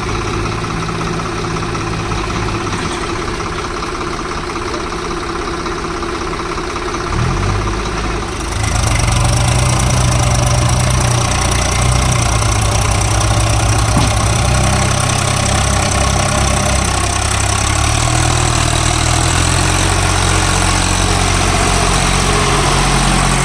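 Heavy diesel engine running steadily, growing louder and fuller about eight seconds in.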